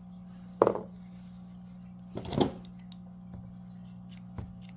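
Steady low hum with a few brief handling sounds and small clicks from working the crocheted piece and yarn by hand.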